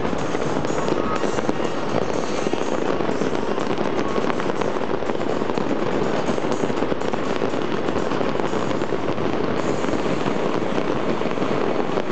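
Fireworks display at full barrage: a dense, unbroken stream of shells bursting and stars crackling, with no pause between them.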